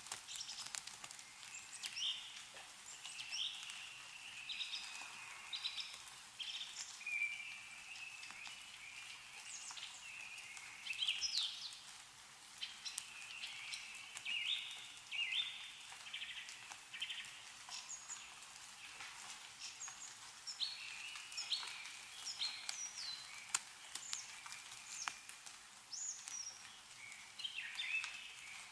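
Birds chirp and call in short repeated phrases, one call after another, over a faint hiss. Scattered sharp ticks of meltwater drip from snow-laden trees.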